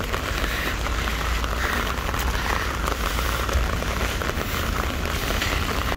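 Heavy, steady downpour of rain: a dense hiss of drops hitting the wet tarmac and surfaces close to the microphone, with a low rumble underneath.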